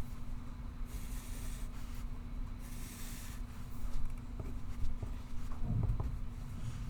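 Pencil scratching on paper in two short spells of writing, over a steady low hum of the room, with a few faint clicks and a soft low thump near the end.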